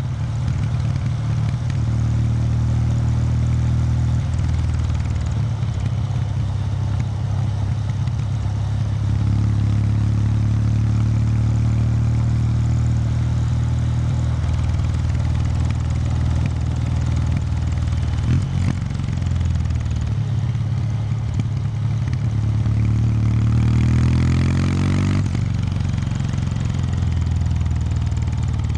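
Kawasaki W800 Street's air-cooled parallel-twin engine running through its stock exhaust at a steady, moderate pace while the bike is ridden. Near the end the note rises as the bike accelerates, then drops suddenly with a gear change.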